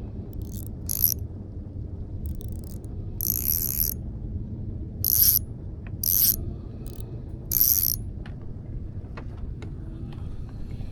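Short ratcheting bursts of about half a second, five times over some seven seconds, over a steady low rumble.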